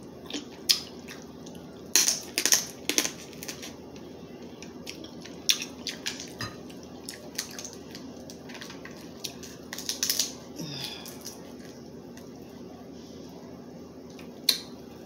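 Crab legs being cracked open and eaten: scattered sharp cracks and clicks of shell, bunched around two seconds in and again around ten seconds in, over a low steady hum.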